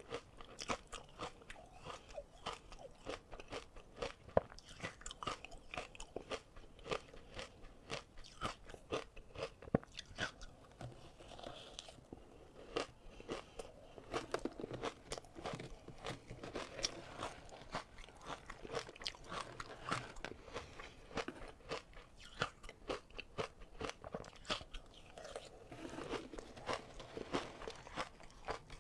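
Ice being bitten and chewed: a steady run of sharp crunches and cracks coming several a second, with brief lulls between bites.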